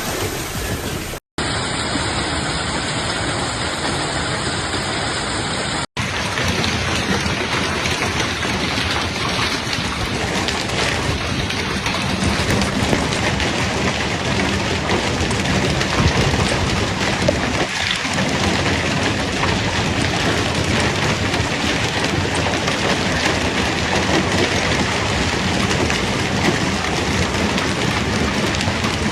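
A severe hailstorm downpour, with rain and hail pelting down on surfaces in a dense, steady hiss. It breaks off briefly twice in the first six seconds.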